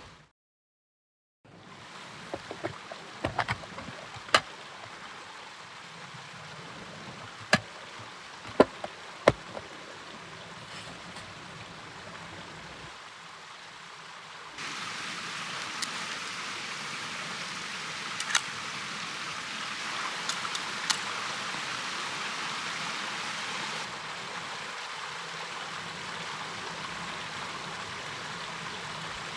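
Wood fire crackling: a steady rushing hiss with sharp pops and snaps scattered through it, a cluster of them a few seconds in and more, single ones, later. The background hiss gets louder and brighter about halfway through.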